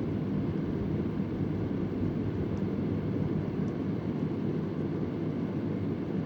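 Vintage Convair oscillating electric fan running steadily: an even, deep rushing of blade and air noise, with a couple of faint, irregular ticks in the background about two and a half and three and a half seconds in.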